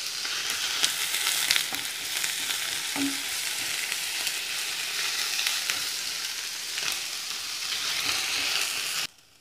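Sliced onions, ginger, garlic, green chillies and curry leaves sizzling in hot coconut oil in a non-stick frying pan, stirred with a wooden spatula that scrapes and taps against the pan. The sizzle cuts off suddenly near the end.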